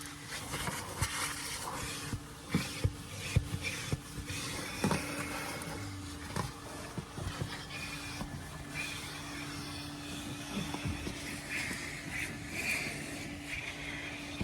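Coin-operated car-wash vacuum running with a steady hum and a rush of air through the hose, the nozzle knocking sharply against the truck's interior several times about two to five seconds in.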